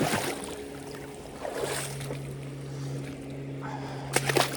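River water rushing past in a fast current, under a steady low hum that grows stronger about a second and a half in. A few short knocks come near the end.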